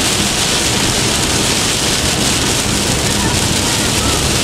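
Heavy rain hitting a car windscreen, heard from inside the cabin while driving on a freeway, as a loud, steady hiss mixed with road noise.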